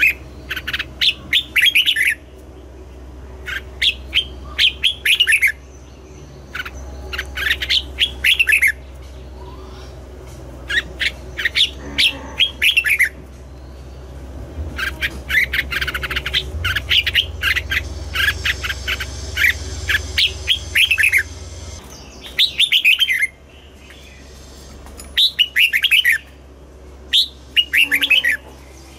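Red-whiskered bulbuls singing: repeated phrases of quick chirping notes, each a second or two long, with short pauses between them, over a faint low steady hum.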